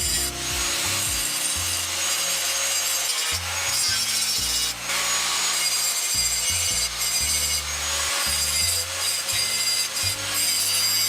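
Grinder grinding down a fresh weld on a steel motorcycle frame: a continuous harsh grinding, briefly easing twice near the middle as the disc comes off the metal. Background electronic music with a stepping bass line plays under it.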